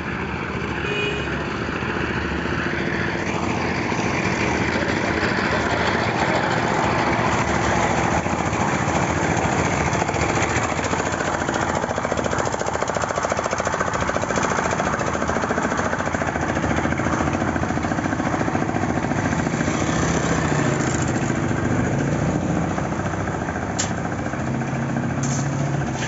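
Tractor's diesel engine running steadily with a fast, even pulse, with two short sharp clicks near the end.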